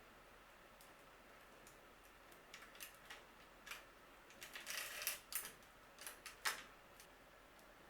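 Scattered light clicks and taps of hand tools and bicycle parts being handled, with a short cluster of rattling taps about five seconds in and a sharper click near the end.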